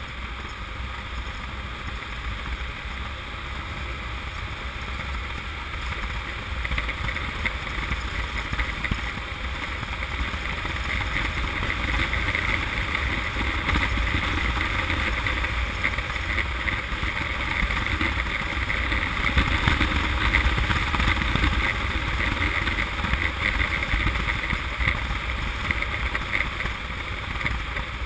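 Honda CM200T's small parallel-twin engine running while under way, mixed with a steady rush of wind over the camera microphone. The sound grows louder about six seconds in and stays up for most of the rest.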